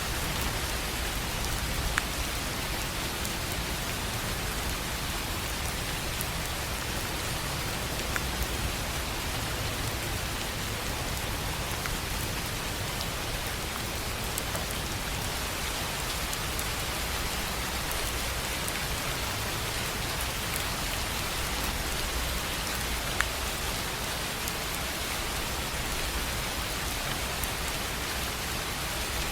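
Steady gentle rain on a tin roof: an even hiss of drops with a few sharper single drop hits now and then, the loudest about 23 seconds in.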